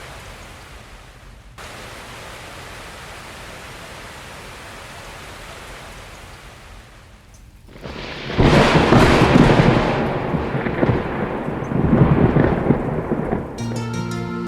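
Steady rain hiss, then a loud rumble of thunder rolling for about five seconds, starting a little past the middle.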